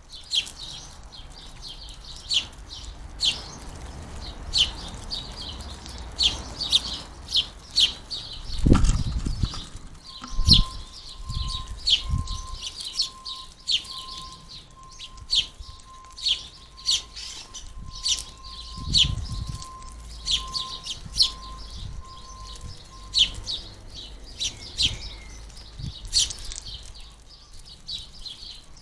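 House sparrows chirping in a steady run of short, high chirps, the begging of fledglings being fed at a feeder. Low thuds come about nine seconds in and again near nineteen seconds.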